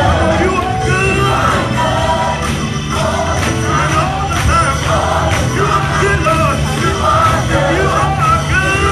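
Loud live gospel music: voices singing over a steady low bass accompaniment.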